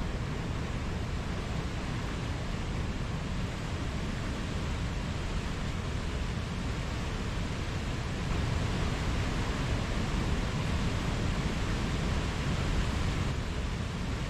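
Mountain stream rushing steadily over rocks, swelling slightly louder for a few seconds in the second half.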